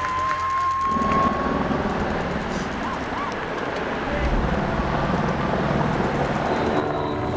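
Road vehicle running, with a steady rush of road and wind noise. A single high whistle-like tone is held for nearly two seconds near the start.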